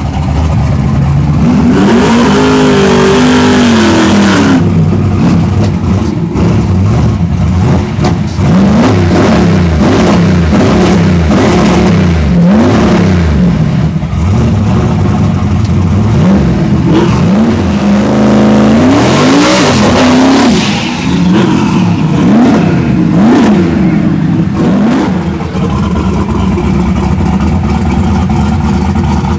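Turbocharged Ford Mustang drag car's V8 revved hard in quick repeated blips during a burnout. Its pitch climbs and falls about once a second, and twice a loud hiss of spinning tyres rises over the engine, a couple of seconds in and again past the middle.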